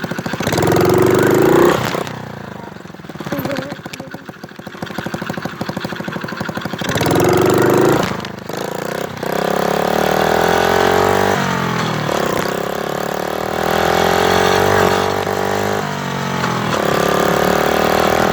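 Motorcycle engine revved up twice, falling back to a lower idle in between, then running steadily at higher revs with its pitch stepping up and down.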